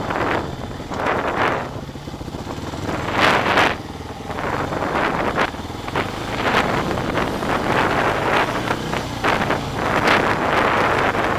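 Yamaha Raptor 125 ATV's single-cylinder four-stroke engine running, its level rising and falling, with wind buffeting the microphone.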